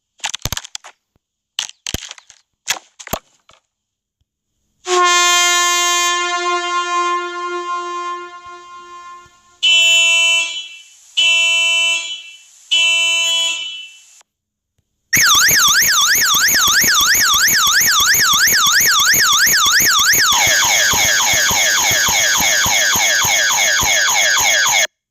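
A string of sound effects. First a few sharp clicks, then one long horn blast that fades away, then three short honks. From about halfway, an electronic siren wails rapidly up and down, switching about 20 seconds in to a repeated falling sweep.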